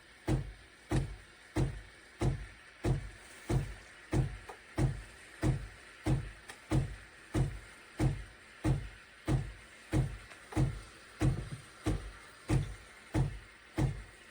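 CASABREWS espresso machine frothing milk through its steam wand: an even run of low pulses, about one and a half a second, over a faint steady hiss.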